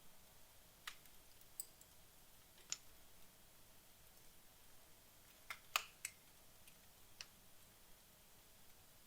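Wood fire burning down in a fireplace: sparse, sharp crackles and pops, about seven or eight, over a faint hiss, with the loudest pops clustered about five and a half to six seconds in.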